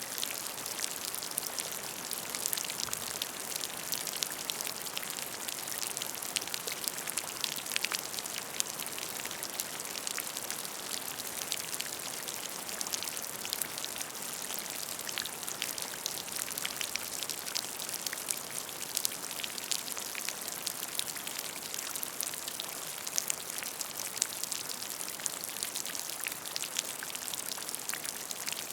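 Rain falling on a puddle of water: a steady patter with many separate sharp drop splashes.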